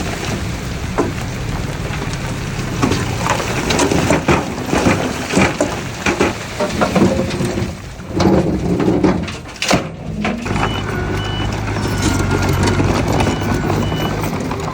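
Heavy diesel earthmoving machinery running steadily, with irregular knocks and clanks through the first ten seconds. In the last few seconds a reversing alarm sounds with short high beeps.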